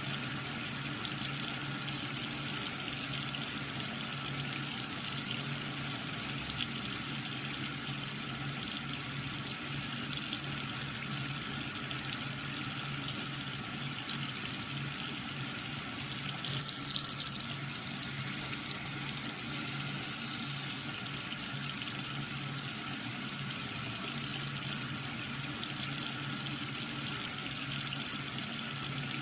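Water running and splashing steadily, with a faint steady hum beneath it.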